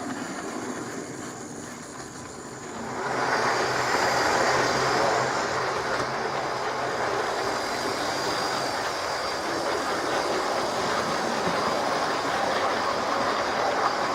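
Hornby model train running on its track: the steady whir of the small electric motor and the wheels on the rails, growing louder about three seconds in.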